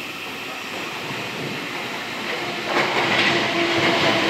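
South Western Railway Class 455 electric multiple unit approaching the platform, its rolling noise on the rails growing louder. About two-thirds of the way through the sound jumps suddenly louder, and steady tones join in as the train nears.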